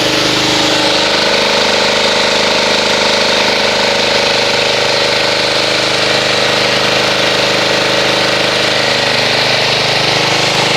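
Pressure washer running steadily, its motor and pump humming under the loud hiss of the water jet rinsing soap off a car.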